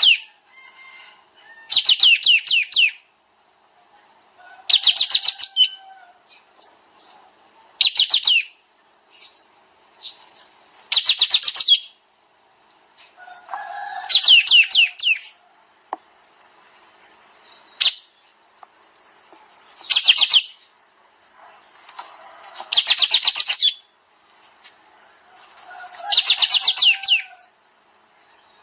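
Kapas tembak songbird singing its rapid 'nembak' bursts: clusters of very fast descending notes, each about a second long, repeated roughly every three seconds, with softer chirps and a thin high whistle between.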